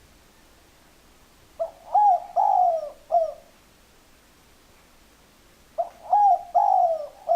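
Spotted dove cooing: two calls about four seconds apart, each a short note followed by three longer coos that fall in pitch.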